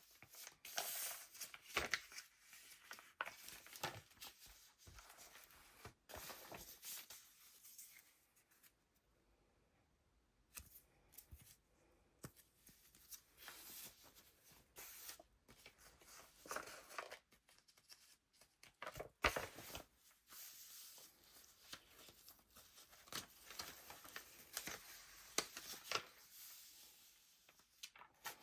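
Paper pages of a handmade junk journal being turned and handled: irregular soft rustles and flaps of paper, with a quiet pause of a couple of seconds about eight seconds in.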